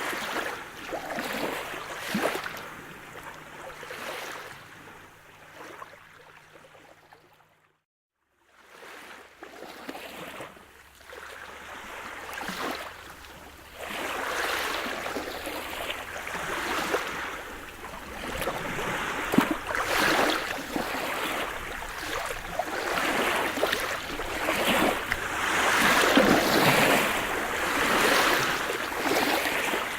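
Sea surf: waves breaking and washing up a shore in swells every few seconds, with a faint steady low hum under the first few seconds. About eight seconds in, the sound cuts out abruptly to silence for about a second, then the surf returns and builds louder.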